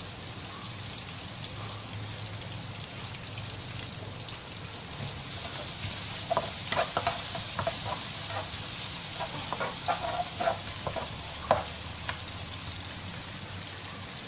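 Sliced onions, ginger and garlic sizzling in hot oil in a non-stick wok. From about six seconds in to about twelve seconds, a spatula scrapes and taps against the pan as it stirs.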